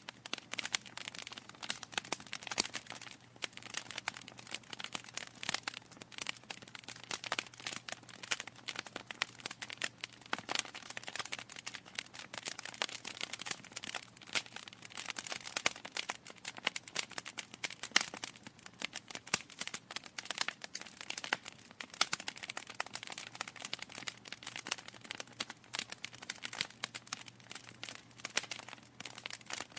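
Wood fire in a fireplace crackling, with dense irregular pops and snaps over a faint low hum.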